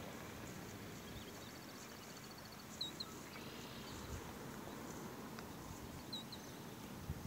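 Small birds calling over a faint, steady outdoor hiss: a quick high trill, then short paired chirps twice. A few soft knocks.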